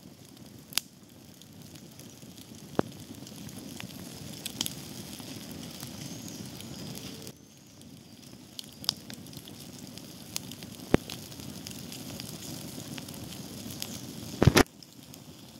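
Wood campfire burning with a steady low hiss and scattered sharp pops and crackles.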